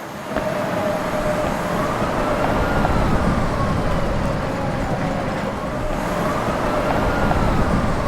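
Emergency vehicle siren wailing, its pitch rising and falling slowly twice, over a steady rumble of city traffic.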